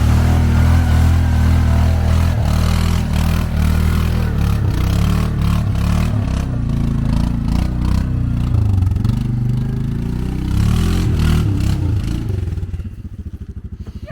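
Vehicle engine running under load, its pitch rising and falling, with clattering and scraping over it. About 13 seconds in it drops back to a steady, fast-pulsing idle.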